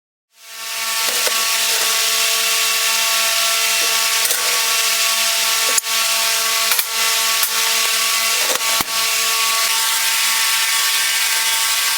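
Electric power tool working metal, running steadily with a constant motor whine under a harsh hiss, with a few sharp clicks along the way. It starts suddenly about a third of a second in.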